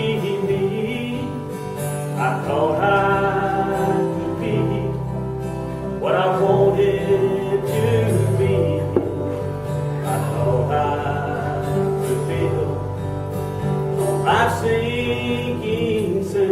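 Live gospel song: singing over a steady instrumental accompaniment, with new sung phrases entering about two and a half, six and fourteen and a half seconds in.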